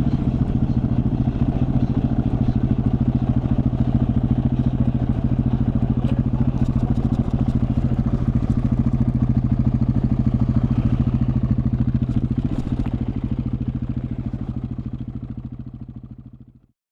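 KTM 690 Enduro R's single-cylinder engine idling steadily with an even, rapid thump, plus a few light clicks around the middle. The sound dies away over the last couple of seconds.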